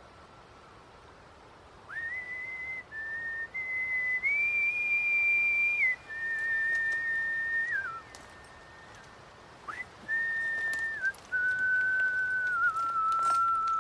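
A person whistling a slow tune: long held notes joined by short slides. It starts about two seconds in and breaks off for about two seconds midway.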